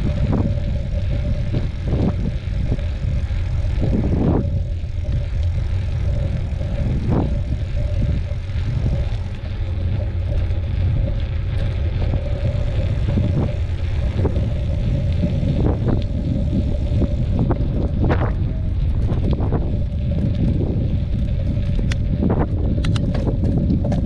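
Mountain bike rolling fast downhill on a dirt trail: a steady low rumble of wind on the microphone and tyres on the ground, with scattered sharp knocks and rattles as the bike goes over bumps.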